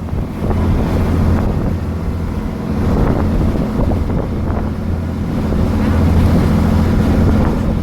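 Tour boat's engine running steadily with a constant low hum, under water rushing past and wind buffeting the microphone.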